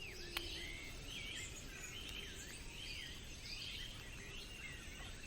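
Birds calling over a low steady hiss of background noise: short chirps that swoop down and up in pitch, repeating about twice a second. A single sharp click sounds shortly after the start.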